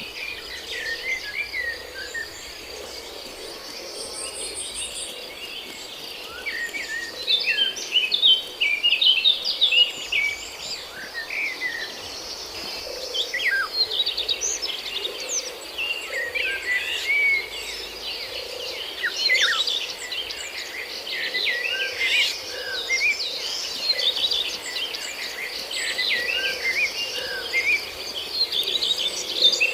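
Many birds chirping and calling in quick, overlapping short notes over a steady, high-pitched insect drone.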